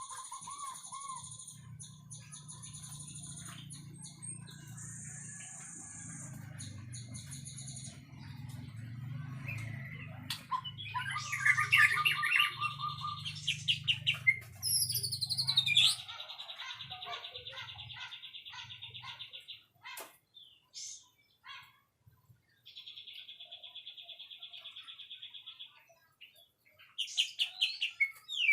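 White-rumped shama (murai batu) singing a varied song of whistled notes, rapid trills and sweeping glides, phrase after phrase with short pauses between. A low hum runs underneath for roughly the first half, then stops.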